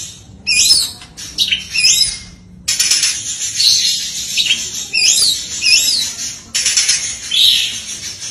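Oriental magpie-robin (kacer) singing loud, rapid runs of high-pitched notes, with swooping phrases repeated several times and short breaks between bursts.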